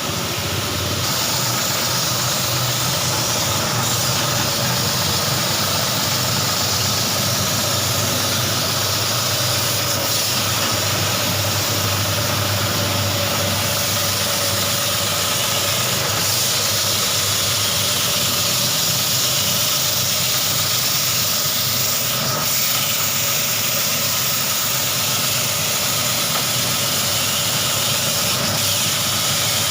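Semi-automatic carpet washing machine running: a steady machine drone with a constant hiss.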